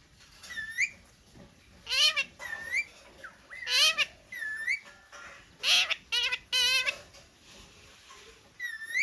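A green Indian parrot calls in a string of about nine short, shrill squawks with hooked pitch. The loudest come about 2, 4 and 6 seconds in, and one call near the seventh second wavers quickly.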